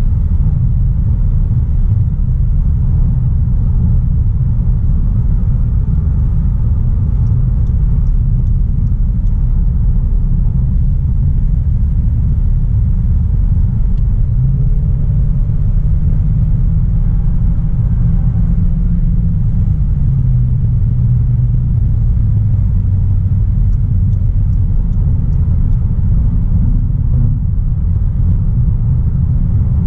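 Audi A3's 1.4 TFSI turbocharged four-cylinder petrol engine cruising under steady load, a low hum over heavy road and tyre rumble. About twenty seconds in, the engine note drops lower in two steps.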